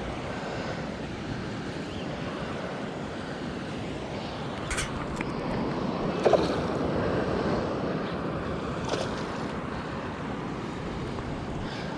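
Steady rush of a fast-flowing stream running high after rain, with a few short clicks and a brief louder knock around the middle.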